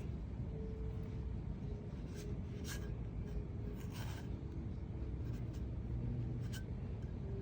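Steady low background hum with a few scattered light clicks and rubbing, scraping sounds of small objects being handled.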